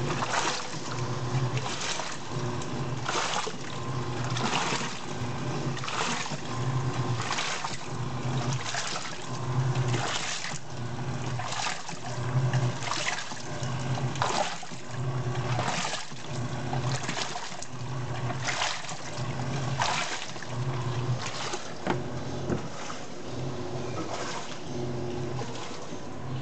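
TECO 12 kg stainless-steel washing machine running a wash: the motor hums in even pulses, about one every 0.7 seconds, as the drive turns back and forth, with water sloshing and splashing in the tub.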